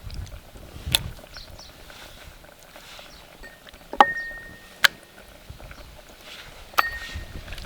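A metal cooking utensil knocking against cookware: four sharp clinks a second or more apart, two of them ringing briefly with one clear tone. Low wind rumble on the microphone underneath.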